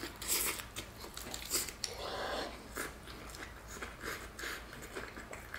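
Chewing and crunching on a crispy battered fried turkey leg, with wet mouth sounds and scattered crackles from the fried coating.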